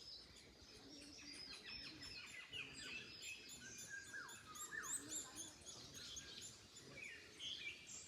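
Several small birds chirping and singing at once: quick high chirps throughout, with a few falling whistles in the middle, over a faint low background noise.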